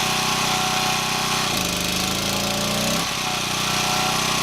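Champion 1200 W portable gas generator's small engine running steadily. About a second and a half in, its note shifts, with tones sliding upward for about a second and a half before it settles back.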